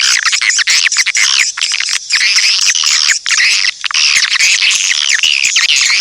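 Swiftlet lure call: many swiftlets twittering at once in dense, overlapping arching chirps with rapid clicking, played as a call sound to draw swiftlets into a swiftlet house.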